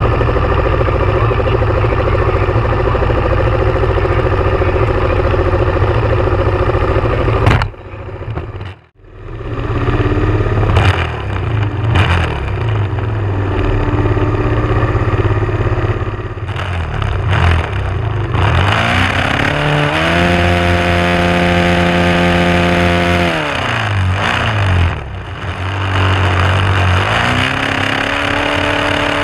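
Suzuki SV650's V-twin engine revved up and held steady for a few seconds, then let back down, then revved and held again near the end as the rider tucks in to launch. Before that, a loud, steady engine noise cuts off suddenly about eight seconds in.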